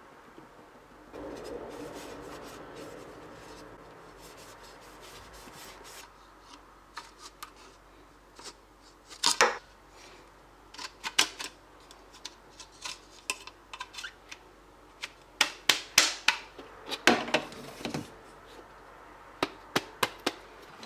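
Plastic trim and end caps being fitted back onto tempered-glass fridge shelves: a soft rubbing at first, then a run of sharp clicks and taps as the parts snap into place, most of them bunched together in the second half.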